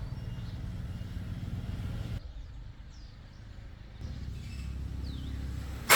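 A vehicle engine running steadily at low speed. It drops out about two seconds in and returns about four seconds in, and a sharp metallic-sounding hit lands at the very end.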